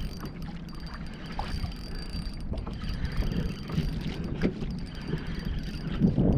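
Wind buffeting the microphone over water lapping against a kayak, with scattered light splashes and knocks.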